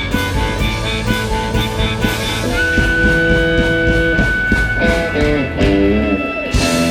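Rock band music with drum kit and guitar, and held instrumental notes over a steady beat. It cuts off abruptly near the end and jumps to a different passage.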